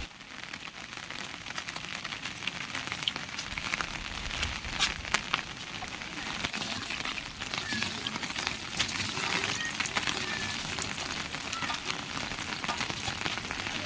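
Heavy rain falling steadily, with a dense crackle of drops striking nearby surfaces.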